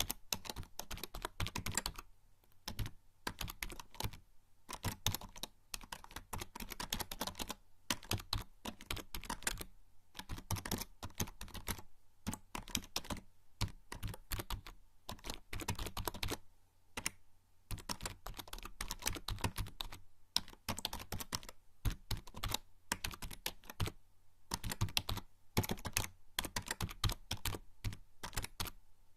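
Typing on a membrane computer keyboard: quick irregular runs of soft key presses with brief pauses between them.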